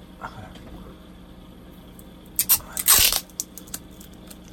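Sellotape being pulled off a plastic model kit to lift old decals: a short crackling rip about two and a half seconds in, followed by a few small clicks.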